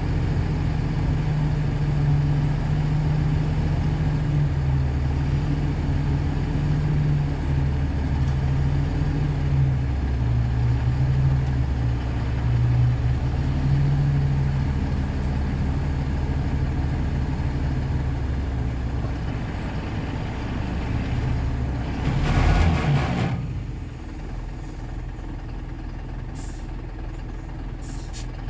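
Shantui DH17C2 crawler bulldozer's diesel engine working under load, its pitch rising and falling as it pushes soil. About 22 seconds in there is a brief loud hiss, after which the engine runs noticeably quieter.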